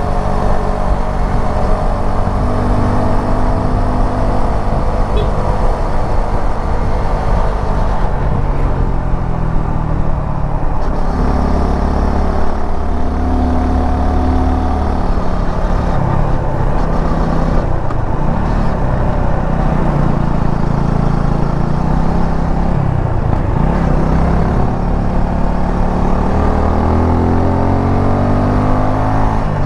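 Suzuki V-Strom 250 SX's single-cylinder engine running under way, its pitch falling and rising several times with throttle and gear changes.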